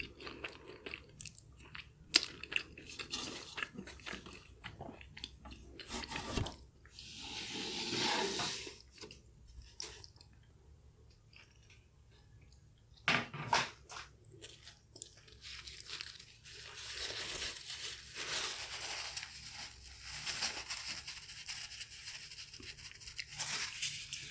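Close-up, sticky chewing of chewy Korean spicy rice cakes (tteokbokki): wet mouth clicks and smacks. There is a scraping noise lasting about a second and a half, seven seconds in, and a few near-silent seconds around the middle.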